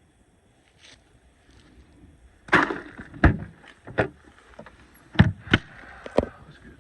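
A series of sharp, irregular knocks and thumps, about half a dozen, starting a couple of seconds in after a quiet start.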